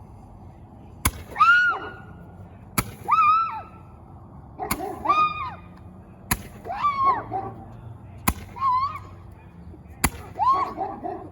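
A 10-ball Roman candle firing its balls one after another: six sharp pops about every two seconds. Each pop is followed by a short high-pitched tone that rises and falls.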